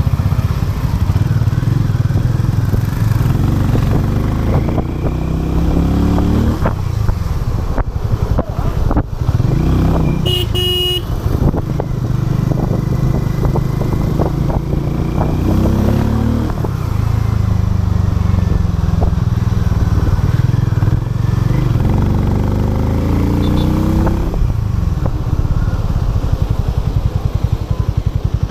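Harley-Davidson X440's single-cylinder engine riding and accelerating, its pitch climbing and then dropping at each gear change, several times over. A short vehicle horn toot about ten seconds in.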